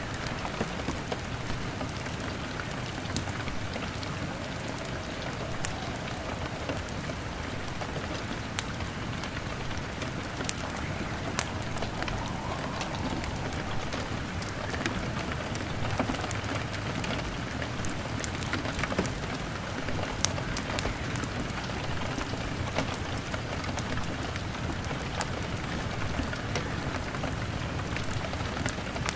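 Steady rain on a window mixed with a crackling fire: a constant even hiss of rain with frequent sharp crackles and pops scattered throughout.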